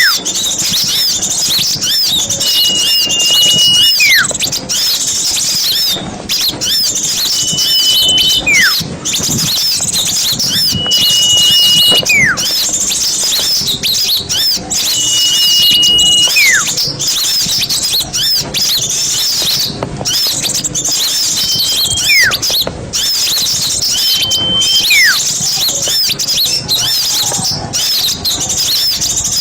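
Recorded small songbirds singing: a continuous, dense, high chatter of quick notes, with a held whistle followed by a falling slur repeating about every four seconds.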